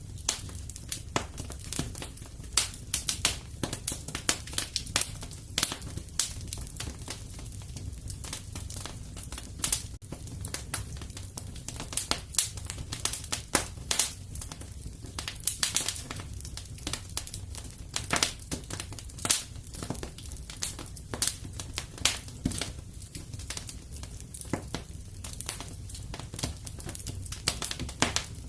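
Wood fire in a fireplace crackling and popping: a dense run of sharp, irregular snaps over a low, steady rumble of the flames.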